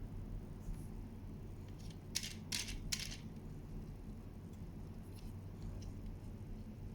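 Three small, sharp clicks in quick succession about two to three seconds in, over a steady low hum: a die-cast metal toy being handled, its parts clicking.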